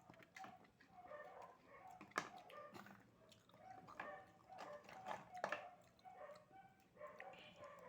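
Faint dog barking, short barks repeating throughout, with a few sharp clicks about two, four and five and a half seconds in.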